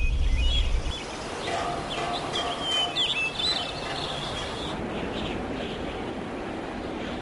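A deep rumble that stops about a second in, then birds chirping over a steady hiss of outdoor ambience.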